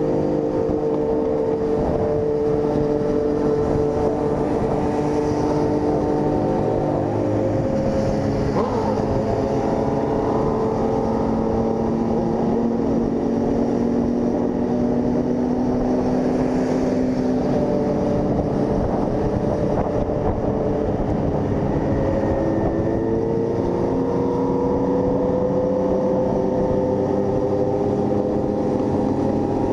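Single-cylinder engine of a Honda CG 160 Fan motorcycle running steadily at road speed. Its pitch holds for long stretches, shifts now and then, and rises gradually near the end.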